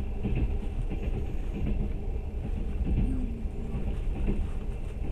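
Train running at speed, heard from inside the passenger carriage: a steady low rumble.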